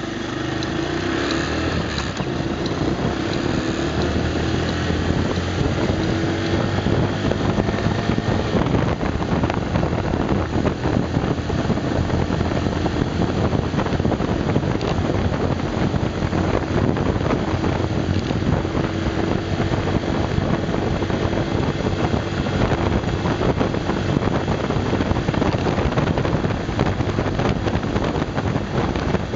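Honda Super Cub 110's small air-cooled single-cylinder four-stroke engine running steadily under way, its pitch wavering a little, mixed with heavy wind rumble on the microphone.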